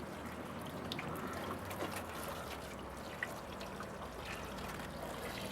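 Water from a garden hose with no nozzle, at low pressure, splashing and trickling over an engine bay as the degreaser is rinsed off. A steady pouring wash with small scattered drips and splats.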